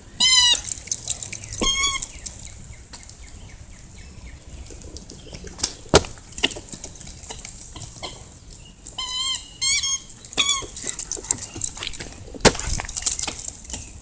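Dog giving short, high, wavering whines in a few bursts, once near the start and then several together later on, with a couple of sharp knocks, over a steady patter of rain.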